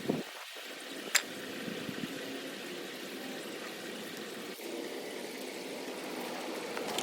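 Steady wash of trickling rainwater, with a single sharp click about a second in.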